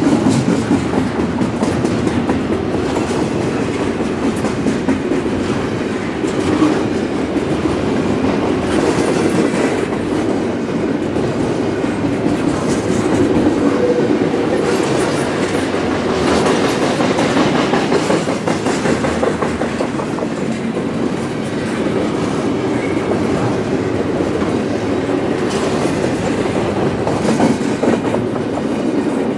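Freight train's doublestack well cars and trailer flatcars rolling past in a steady, loud rumble, with the constant clickety-clack of steel wheels over the rail.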